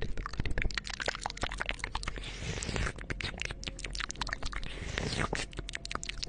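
ASMR mouth sounds made right up against a 3Dio binaural microphone: a rapid, uneven stream of wet clicks, smacks and tongue pops.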